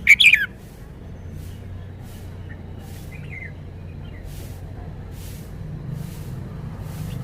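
Red-whiskered bulbul singing: a loud quick phrase of sweet whistled notes right at the start, then a few faint short notes a couple of seconds later and another near the end. A steady low rumble runs underneath.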